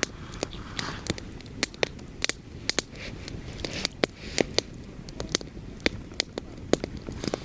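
Fire crackling in a small mangal barbecue grill: irregular sharp pops and snaps, several a second, over a low wind rumble.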